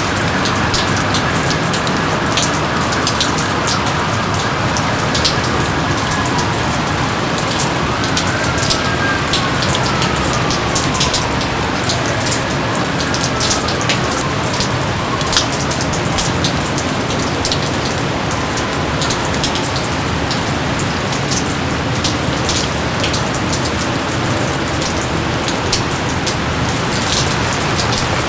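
Steady heavy rain, with many sharp individual drops striking close by throughout.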